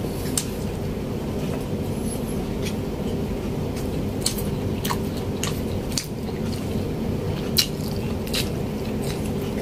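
Chewing and lip-smacking of a man eating fatty pork adobo and rice with his hands: scattered wet smacks and clicks, about eight in all, the sharpest a little before the end. Under them runs a steady low hum.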